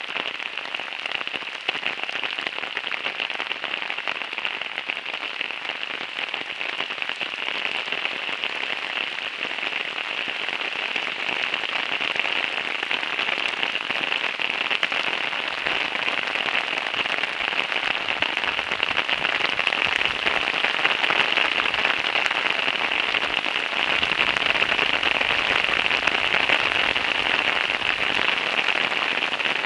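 Heavy rain falling hard, a dense steady hiss of drops hitting the street and surfaces, growing somewhat louder in the second half.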